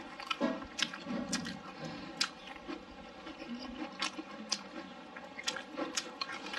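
A person chewing a mouthful of rice and braised meatball close to the microphone, with wet mouth smacks and lip clicks at irregular intervals.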